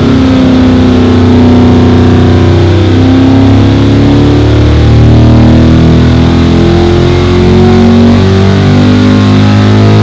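A 329 cu in big-bore, short-stroke small-block Chevy V8 (400 block with a 283 crankshaft) revving under load on an engine dyno during a power pull. It runs loud and climbs steadily in pitch from about 4,500 rpm to about 6,700 rpm.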